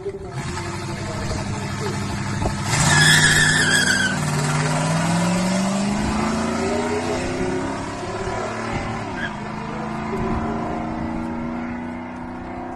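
Squarebody Chevy drag truck accelerating hard, with a burst of tire squeal about three seconds in. The engine pitch climbs steadily, drops briefly, then climbs again.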